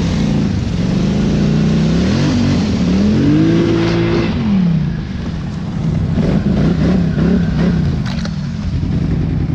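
Small off-road engine revving up and down over and over as it is ridden, its pitch climbing and falling several times, with a quick warbling stretch near the end.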